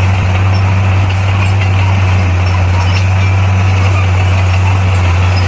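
Bulldozer's diesel engine running steadily, a deep even hum that holds unchanged throughout.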